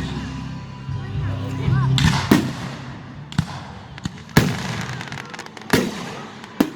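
Aerial fireworks shells exploding in a quick series of sharp bangs, the first about two seconds in and the loudest near the middle.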